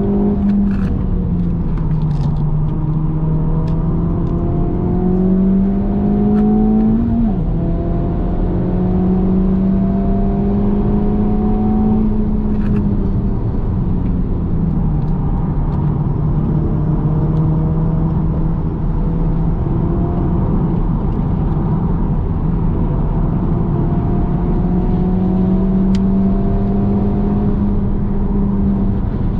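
Honda Civic Type R FL5's turbocharged 2.0-litre four-cylinder engine heard from inside the cabin on track, revs climbing slowly in gear and falling several times, with a sharp drop like an upshift about seven seconds in. Steady tyre and road noise runs underneath.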